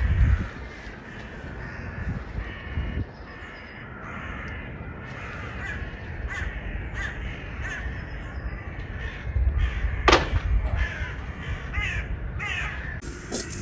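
Birds calling over and over in short, repeated calls, with one sharp crack about ten seconds in.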